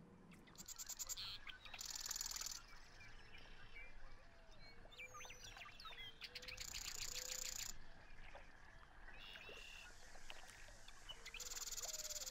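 Birds singing: five rapid, buzzy high trills of up to a second each, with short chirps scattered between them.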